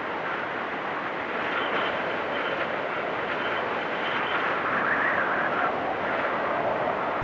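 Blizzard wind blowing steadily, a rushing noise with a whistling edge that swells in a gust about five seconds in.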